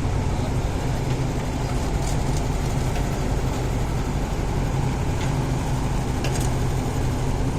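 Excavator's diesel engine running steadily, with a few light clicks scattered through.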